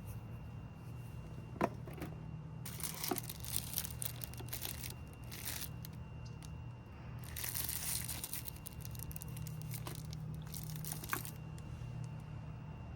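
Intermittent rustling and crinkling in bursts, with a few sharp clicks, over a low steady hum.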